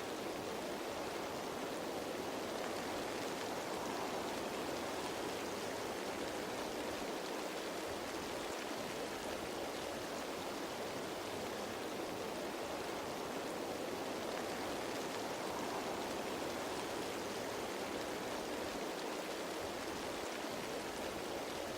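Steady rain falling on leaves: a dense, even patter with no single drops standing out.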